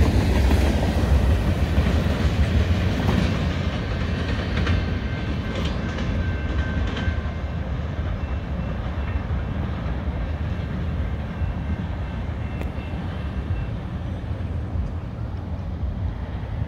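Freight train cars on a CN freight train, centerbeam flatcars loaded with lumber, rolling past on the rails and receding. The rumble and clatter of the wheels fade gradually as the end of the train moves away.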